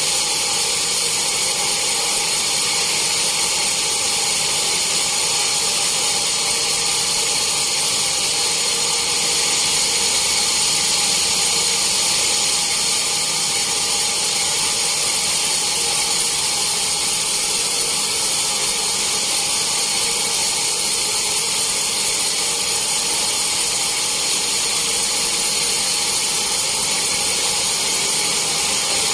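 Sawmill saw running steadily, a constant loud machine noise with high-pitched whining tones that hold level throughout.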